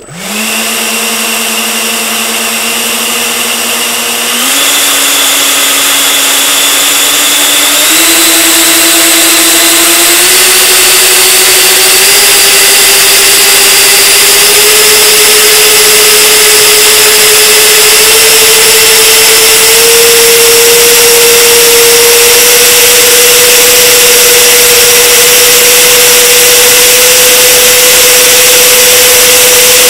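Two 12-bladed Changesun electric ducted fans on the wing engines of an RC L-1011 TriStar model starting from rest and running up under power with a loud whine. The pitch climbs in steps every few seconds as the throttle is advanced, then holds steady from about 20 seconds in. This is a two-engine power test, the tail-mounted fan being out after its blade broke.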